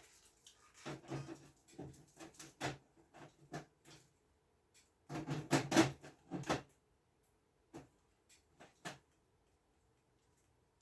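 Handling noise of a part being test-fitted into a 6-inch hole: scattered knocks, clicks and rustles, busiest in two spells in the first seven seconds, then only a few faint ticks.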